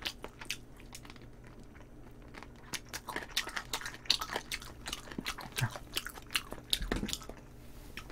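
A person chewing and smacking on a piece of spicy braised chicken close to the microphone: a run of short wet smacks and clicks, thinning out briefly about a second in and then coming thick again.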